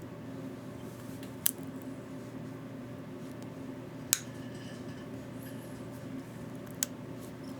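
Three sharp clicks of small hand tools being worked at a workbench, spaced a few seconds apart, over a steady low hum.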